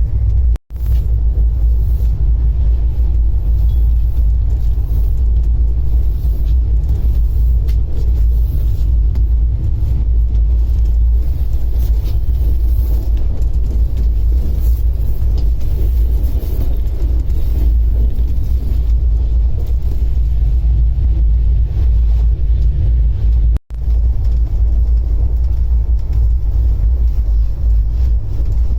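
Steady low rumble of a moving express train running along the line, heard on board. It cuts out abruptly for an instant twice, once about half a second in and once near the end.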